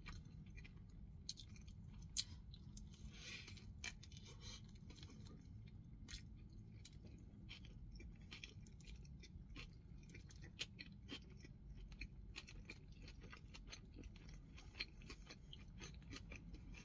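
Quiet close-up chewing of a burger topped with bacon and onion rings: soft wet mouth clicks and smacks scattered throughout, with one sharper click about two seconds in.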